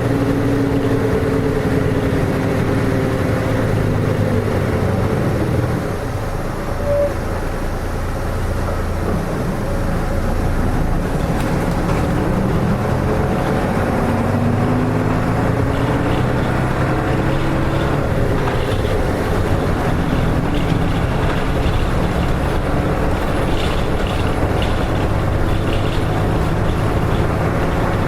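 Running sound of a Hino Rainbow RM (KK-RM252GSN) medium-size bus engine heard from inside the bus. The engine note falls as the bus slows, goes quieter for a few seconds, then rises as it pulls away about eleven seconds in and settles into steady running.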